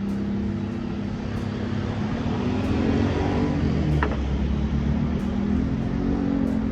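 A car driving: steady engine hum with road noise.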